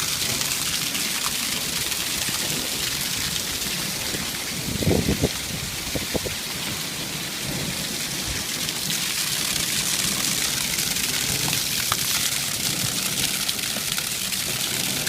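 Heavy rain pouring steadily in a thunderstorm, with thunder rumbling. A brief, louder sound about five seconds in.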